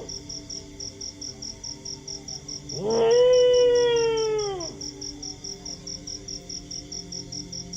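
A dog howls once about three seconds in, a single howl of about two seconds that swoops up, holds steady and then falls away, with fainter howls further off before and after. Crickets chirp in a fast, even pulse throughout.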